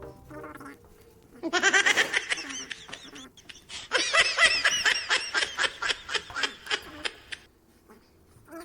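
High-pitched laughter in quick repeated pulses, a short bout about a second and a half in and a longer one from about four seconds to seven.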